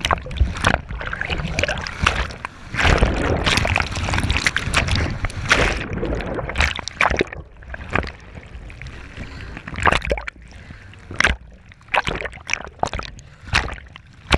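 Water splashing and sloshing close to the microphone, in irregular surges with sharp knocks and bumps.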